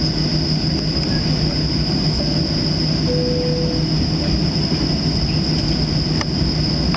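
Steady cabin noise inside a Boeing 737-700 on the ground before takeoff: a constant low rumble with a high steady whine over it. A short plain tone sounds about three seconds in.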